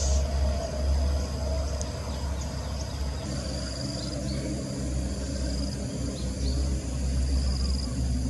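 Outdoor ambience: insects droning in steady high tones, over a constant low rumble, with a few short high chirps.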